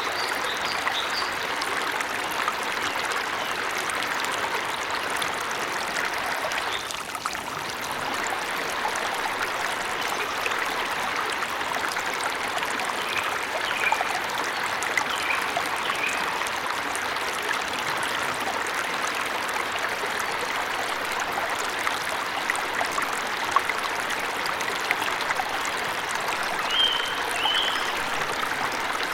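Waterfall in a forest, a steady rush of running water. A few short, faint bird chirps sound near the start, several more in the middle and a pair near the end.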